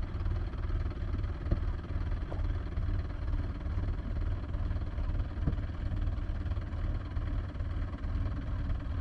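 Tractor diesel engine running steadily with a low, continuous rumble.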